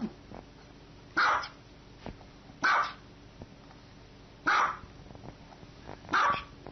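Small white dog barking, four single barks spaced about a second and a half apart.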